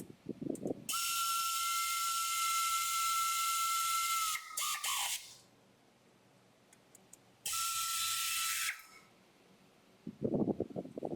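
Air-powered rotary tool running in two bursts, a loud hiss of exhaust air with a steady high whine. The first burst is longer, and its whine slides down in pitch as the tool spins down after release. The second is shorter.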